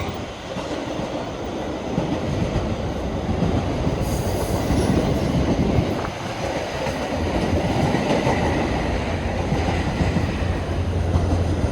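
Freight train cars rolling past close by, with a steady rumble and rattle of wheels on the rails. A low engine drone builds near the end as a locomotive approaches.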